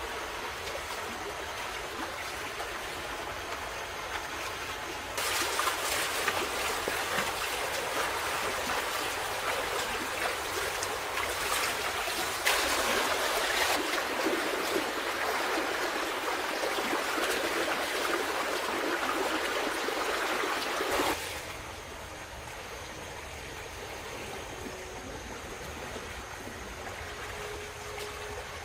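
Running water, a steady rushing noise. It jumps louder and brighter about five seconds in and drops back quieter about eight seconds before the end, with abrupt changes between sections.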